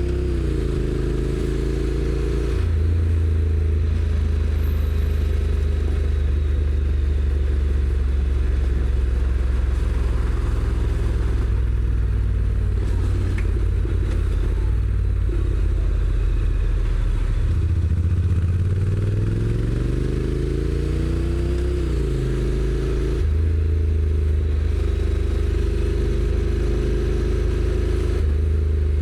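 Honda NC750X parallel-twin engine with stock exhaust, heard from the rider's seat. It runs steadily under way. Its pitch climbs under acceleration and then drops as the DCT gearbox shifts up, once shortly after the start and again about three quarters of the way through.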